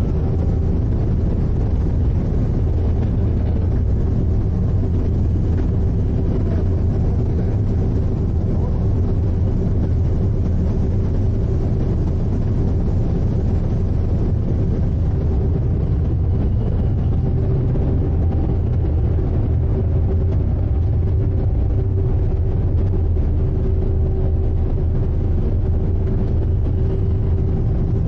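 Steady low rumble of the sightseeing icebreaker Aurora under way through drift ice, its engines and hull noise continuous, with a faint steady hum above it.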